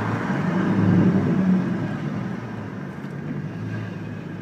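Corvette fixed-roof coupe's V8 heard from inside the cabin while driving, with road noise. The engine note swells about a second in, then eases off and quietens.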